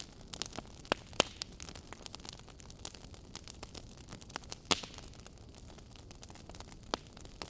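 Wood fire burning in an open fireplace, crackling with irregular sharp pops over a low steady hiss; the loudest pops come about a second in and just before the five-second mark.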